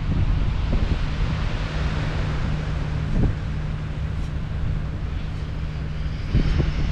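Wind buffeting the microphone over a steady low hum, likely from a ship's engine or a nearby vessel.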